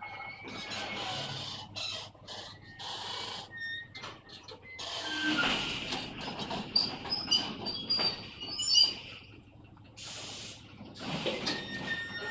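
Metre-gauge FEVE freight train running: rolling noise that swells and fades unevenly, with several high-pitched squeals about six to nine seconds in.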